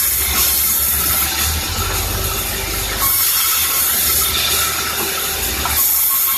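Sawmill saw running and cutting through timber: a loud, steady machine noise with a high hiss that swells a few times over a low rumble.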